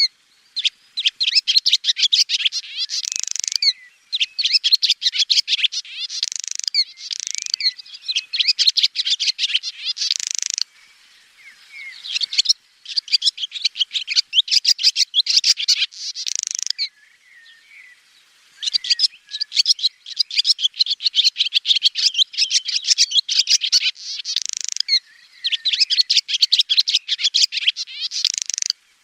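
Swallow twittering: rapid trains of short, high chirps in bouts of a few seconds, with two brief quieter lulls near the middle.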